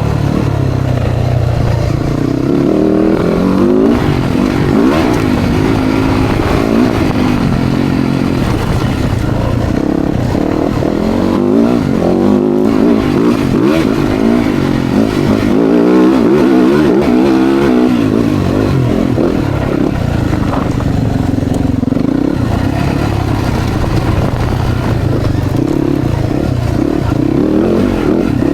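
Dirt bike engine being ridden hard, its pitch rising and falling again and again as the throttle is opened and closed.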